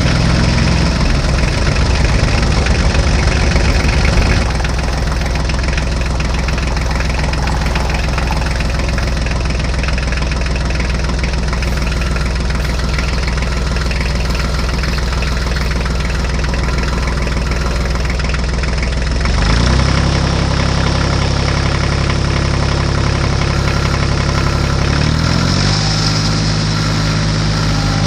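Tractor engine idling steadily, its pitch shifting a few times: a step change about 4 s in, a short rise around 20 s, and another change near 25 s.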